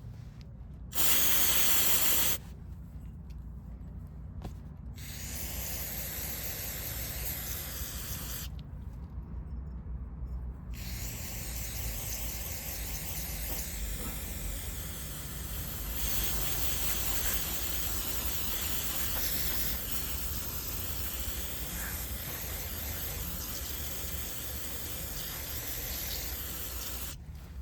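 Aerosol carburetor cleaner spraying into a clogged dirt-bike carburetor: a short loud burst about a second in, then a few seconds more of spraying, and after a pause a long steady spray that stops near the end.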